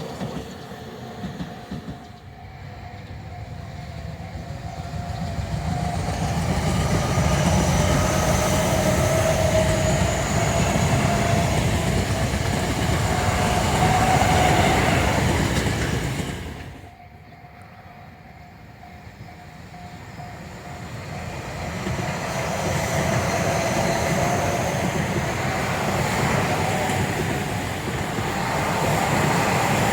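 Tobu Tojo Line electric commuter trains passing: a rumble of wheels on rail with clickety-clack and a gliding whine, building to a peak. The sound drops off suddenly about halfway, then a second train builds up again.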